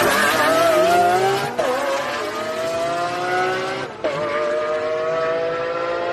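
Lamborghini Aventador SVJ's naturally aspirated V12 accelerating hard, its note climbing steadily. Quick upshifts come about one and a half seconds in and again about four seconds in; each drops the pitch briefly before it climbs again.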